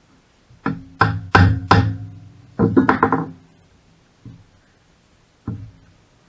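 Metal tools and engine parts knocking and clanking during a small generator engine teardown: four sharp knocks in quick succession, a rattling clatter, then two lighter knocks, each ringing briefly.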